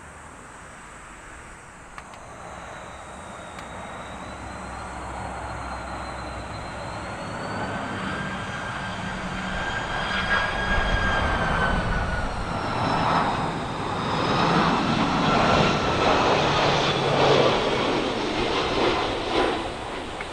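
Airbus A330-200 jet engines on approach to land, growing steadily louder as the airliner draws near and passes, with a high whine that wavers in pitch over the rushing engine noise.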